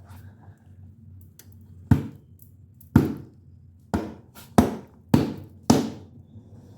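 Six hard thumps, first about a second apart and then quicker, from a foot being stomped down into a cowboy boot to push its loose inner liner back into place.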